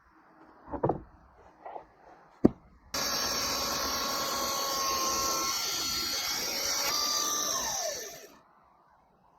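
Logosol E5 electric speedsaw starting abruptly about three seconds in and running steadily for about five seconds, then switched off and winding down with a falling whine. Before it starts there are a few light knocks and one sharp click.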